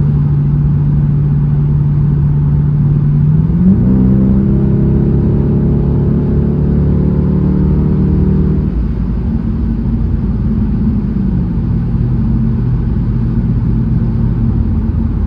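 2006 Dodge Charger R/T's 5.7-litre Hemi V8 running at highway speed, heard from inside the cabin. About three and a half seconds in, the engine note jumps up and holds under acceleration for about five seconds, then falls back to a lower, steady note over road noise.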